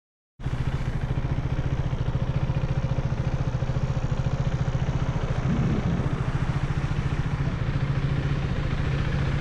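KTM 390 Duke's single-cylinder engine running steadily at idle, with a fast, even firing pulse. It cuts in abruptly just under half a second in.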